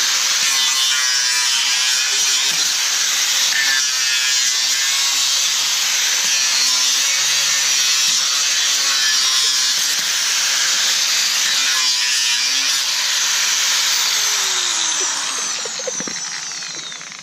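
High-speed rotary tool, Dremel-type, cutting into a plastic pit bike fender with a steady grinding whine. Near the end it is let off and winds down, its pitch falling.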